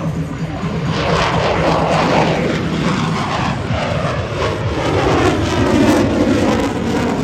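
F-16 Fighting Falcon jet engine passing overhead: a loud jet roar with a sweeping, falling whoosh as the aircraft goes by.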